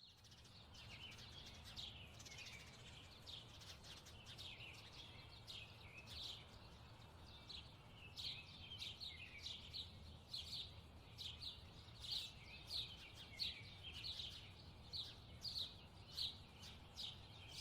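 Faint, rapid chirping of small birds, many short high chirps a second, coming thicker about halfway through, over a steady low hum.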